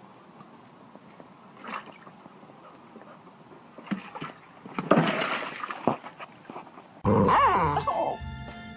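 A dog making short noisy sounds around the middle, then a louder wavering cry about seven seconds in as music comes in.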